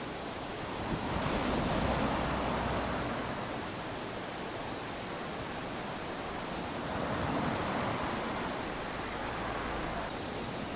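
Small sea waves lapping onto a sandy beach: a steady wash of surf that swells twice, about a second in and again about seven seconds in, each time fading away over a few seconds.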